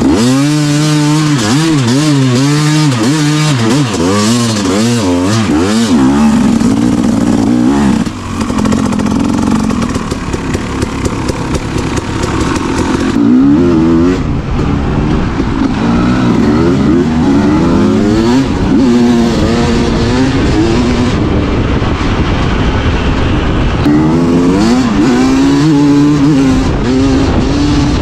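Husqvarna TC dirt bike engine heard on board, revving up and falling back again and again as the throttle is worked through the gears, with a steadier stretch in the middle and wind noise over it.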